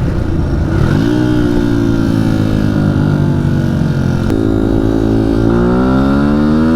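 Dirt bike engine heard from the rider's seat, accelerating: its pitch climbs about a second in, steps again at about four seconds and climbs once more from about five and a half seconds, running up through the gears.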